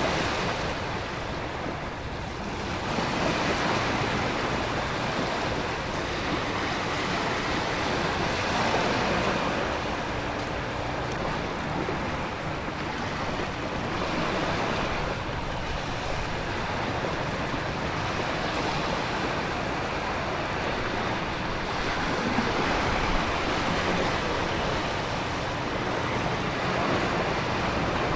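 Storm ambience of heavy surf, wind and heavy rain: a dense, steady rushing that swells and eases every few seconds as waves break.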